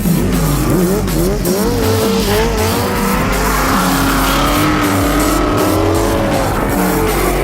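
Drift car's engine revving up and down with tyres squealing as it slides; the pitch swings quickly at first, then holds in longer glides.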